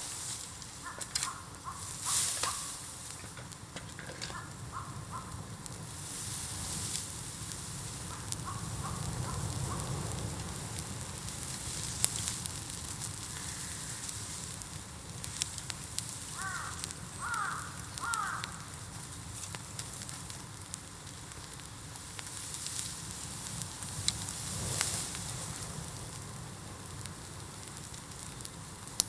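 A bonfire of piled bamboo burning, with a steady crackling hiss and a low rumble, broken by sharp pops now and then.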